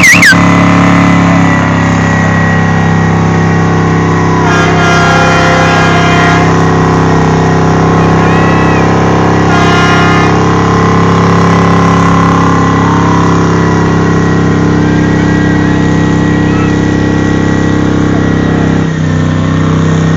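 Car engine running loud at steady, held revs, with a brief dip near the end.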